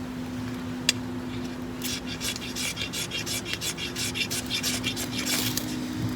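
Fast, rhythmic scraping strokes of a tool on wood, several a second, starting about two seconds in after a single sharp click.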